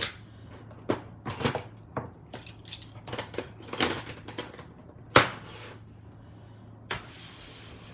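Craft supplies being handled on a desk: a run of small clicks, taps and rustles, with one sharp knock about five seconds in and a paper-like rustle near the end.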